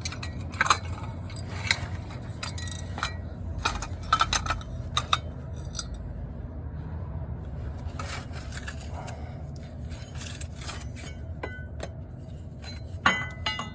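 Scattered sharp clicks, clinks and scrapes of metal tools and parts being handled, in two flurries with a quieter spell in the middle, over a steady low hum.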